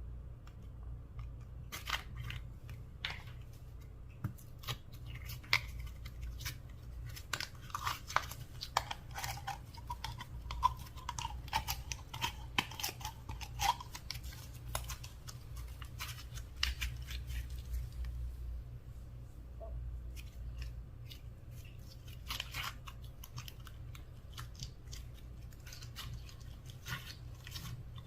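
Slime being worked by hand: an uneven run of sticky clicks, pops and crackles, with a brief wavering squeak in the middle, over a steady low hum.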